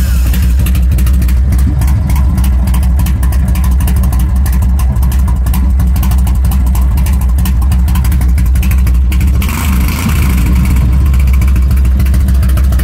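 1998 Harley-Davidson Softail Custom's Evolution V-twin engine running steadily just after starting, with a brief dip and then a brighter tone about ten seconds in. It runs like a champ: the bike is running fine again after years of sitting.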